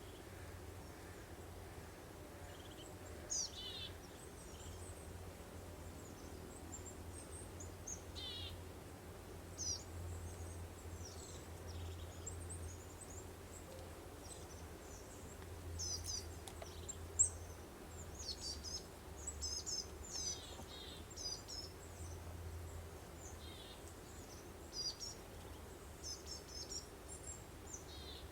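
Songbirds chirping and singing in short, high calls scattered throughout, busier in the second half, over a soft, steady breeze-like background with a low hum. One sharp click stands out about two-thirds of the way through.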